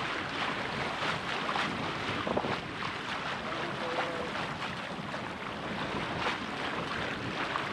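Steady rush of wind and water aboard a sailboat under way, with wind buffeting the microphone and many short, irregular ticks and splashes.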